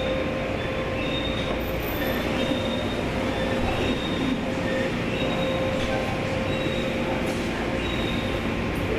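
Automatic tunnel car wash machinery running: a loud, steady mechanical din with a constant hum through it.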